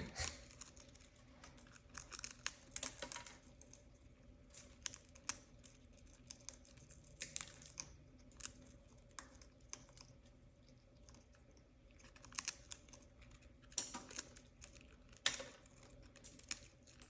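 A parrot nibbling and crunching keto bread with its beak: irregular sharp clicks and crackles with short pauses between, over a faint steady hum.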